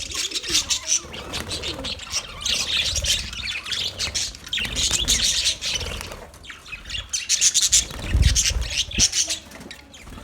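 A colony of budgerigars chirping and chattering, many birds at once in a dense, continuous twitter, with a low rumble about eight seconds in.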